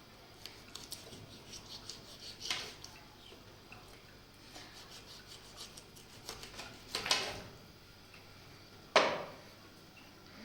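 Scattered light clicks and knocks of objects being handled, with a couple of louder scraping bursts and one sharp knock near the end.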